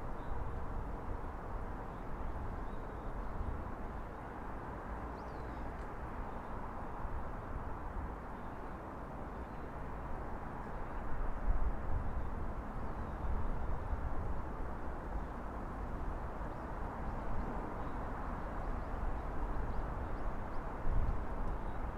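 Steady outdoor city ambience: a continuous low hum and rumble of distant traffic, with a few faint high chirps about five seconds in.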